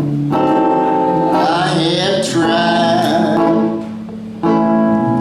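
Harmonica playing an instrumental break as held, multi-note chords that change about once a second, with brief gaps between them. The playing drops softer for about half a second, then comes back at full strength near the end.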